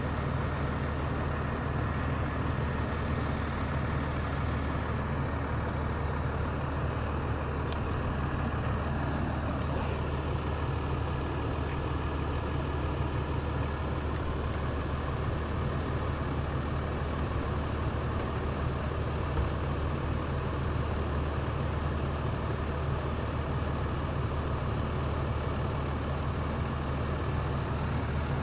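Heavy diesel engine of a utility truck idling steadily, with a couple of faint clicks about eight and ten seconds in.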